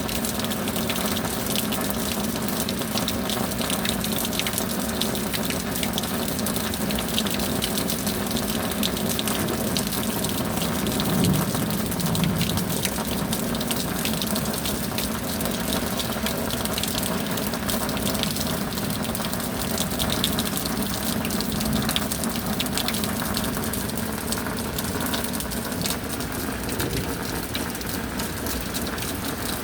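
Steady rain with a constant rush of running water and many fine spattering drops.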